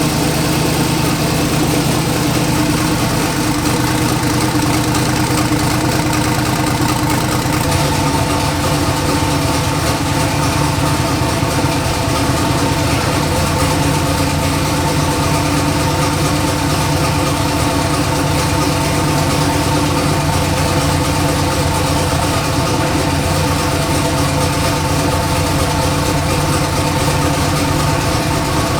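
Turbocharged LS V8 engine idling steadily, with no revving.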